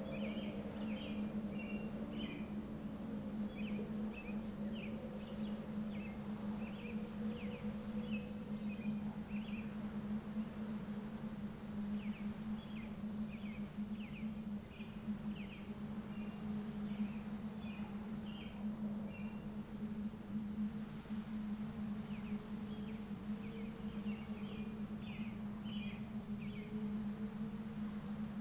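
Small birds chirping in quick high trills, in three bursts of a few seconds each, over a steady low hum.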